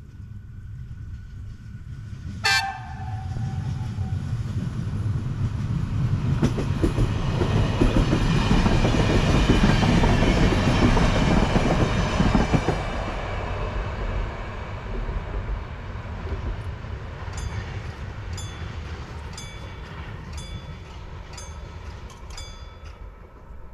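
A train passes close by. A short horn blast sounds about two and a half seconds in. The rumble of the train then builds to its loudest around ten seconds in, with a high metallic ringing over it, and fades, while a row of sharp ringing clicks, a little under one a second, comes near the end.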